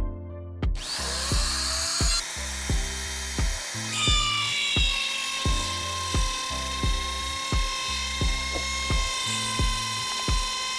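A power tool starts up about a second in and spins up, then runs with a steady high whine, over background music with a steady beat.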